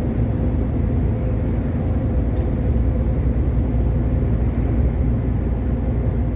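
Long-haul truck driving along a highway: a steady low rumble of engine and road noise.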